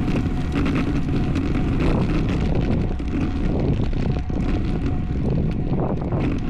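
Steady wind rush on the microphone with road noise from a road bicycle riding at speed.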